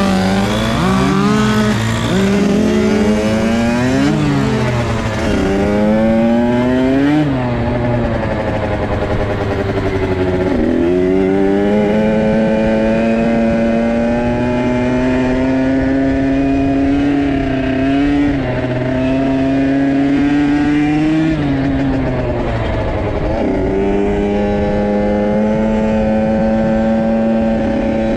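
Dirt bike engines racing: in the first few seconds several engines rev up and down through the gears, their notes crossing; then one engine holds a steady high rev, drops briefly about 21 seconds in, and climbs back to a steady pitch.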